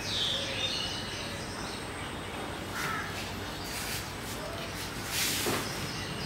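Birds chirping faintly in the background, with a few short rustling sounds about three, four and five seconds in.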